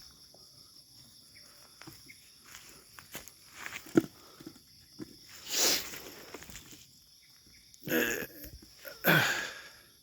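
Steady high chirring of crickets or other night insects, with a few short noisy bursts of movement, the longest about a second long near the end.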